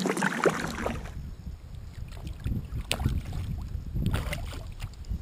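Wind rumbling on the microphone of a kayak on a river, with a few short splashes of water.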